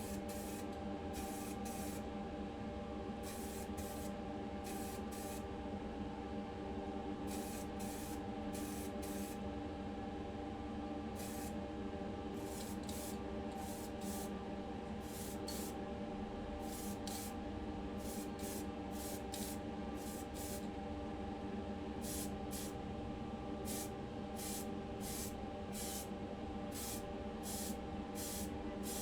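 Paint sprayed onto a diecast model's parts in many short hissing bursts, irregularly spaced, over a steady hum from a machine in the room. The bursts are primer, then the colour coat.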